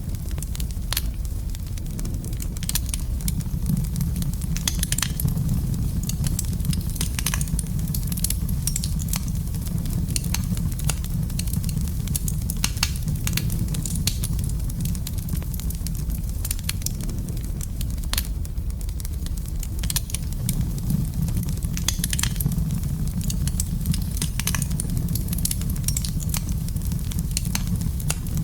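Wood fire burning in a fireplace: a steady low rumble of flames, with frequent irregular crackles and sharp pops.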